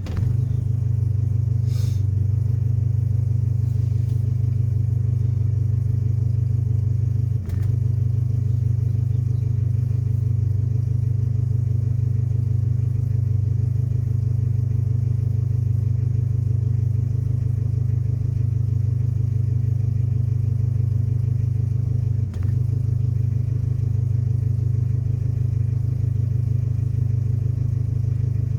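Nissan 720 pickup's engine running steadily at idle, with a low, even hum that dips briefly twice, about 7 seconds and 22 seconds in.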